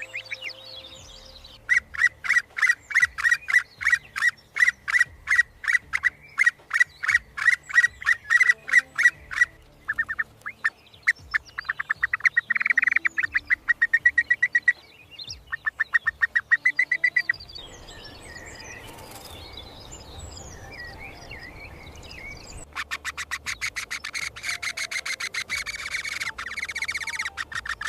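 Bird calls: a long series of sharp, evenly repeated chirps, about three a second, then faster runs of calls, a few seconds of hiss with scattered high notes, and a fast run of chirps near the end.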